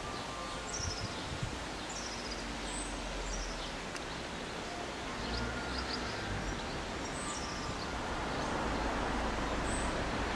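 Outdoor ambience with small birds giving short, high, falling chirps every second or so over a steady low rumble. Near the end a rising hiss of an approaching car builds up.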